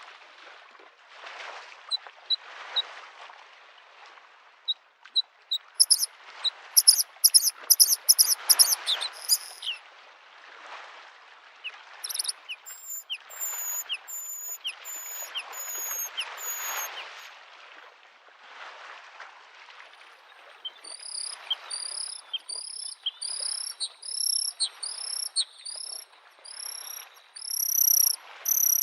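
Small waves lapping at a lake shore, swelling and fading every two to three seconds, under a bluethroat's song: phrases of rapid, high repeated notes, with a longer run of rising notes near the end that is the loudest.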